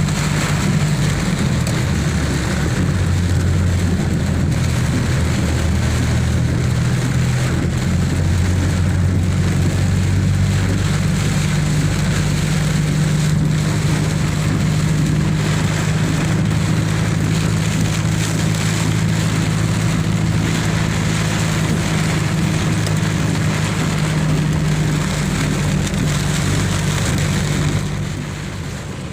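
Heavy rain falling steadily, with the low steady hum of a vehicle engine underneath that shifts in pitch about ten seconds in.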